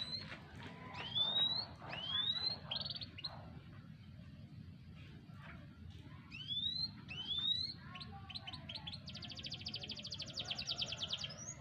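Young domestic canary, four to five months old, singing: a few rising whistled notes in separate groups, then a fast, even trill near the end.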